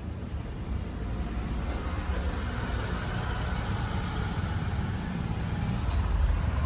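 Steady low rumble of outdoor background noise, growing slightly louder toward the end.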